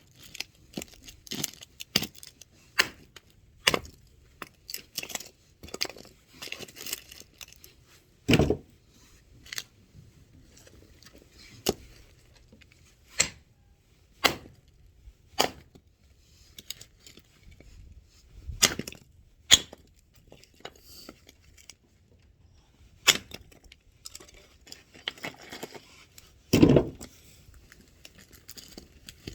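Axe striking and splitting firewood: irregular sharp knocks, with heavier blows about 8 s in, around 19 s, about 23 s and near the end, and lighter knocks between them.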